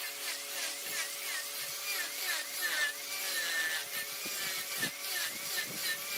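Large woodworking lathe running with a steady motor hum while a cutting tool scrapes and shaves a spinning mahogany workpiece. The cutting noise wavers up and down in a quick, regular rhythm.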